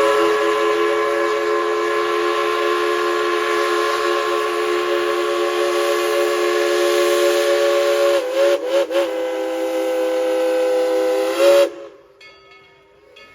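Steam whistle of Tweetsie Railroad No. 190, a Baldwin 4-6-0 narrow-gauge steam locomotive, sounding one long blast of several tones together. It wavers twice about two-thirds of the way through, then cuts off sharply near the end, leaving fainter train sounds.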